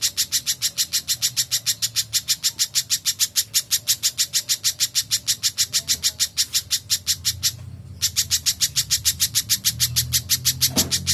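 Spiderhunter calling: a rapid, evenly spaced string of sharp, high chipping notes, broken once by a short pause about seven and a half seconds in.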